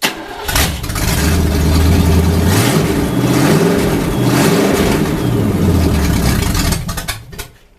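Sunbeam Tiger's Ford 289 V8 cranking and catching almost at once, then running with the revs rising and falling a few times before it is shut off about seven seconds in, sputtering briefly as it dies.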